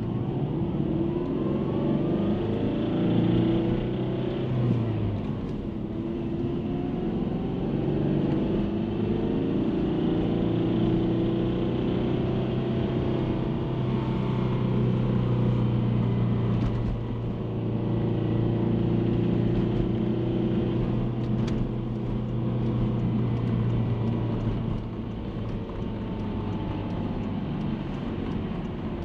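EJ20 turbocharged flat-four of a 2003 Subaru Legacy BP5 being revved. The revs climb early on, dip briefly, hold up for a long stretch, then fall back about 25 seconds in. The owner reports a rattle of unknown cause from the engine bay that appears as the revs reach about 3500 rpm, and finds it unlike a blown engine.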